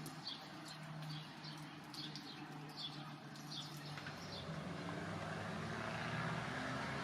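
A songbird repeating a short, falling high chirp about twice a second, stopping about four seconds in. Under it a low hum and a rushing noise swell louder through the second half.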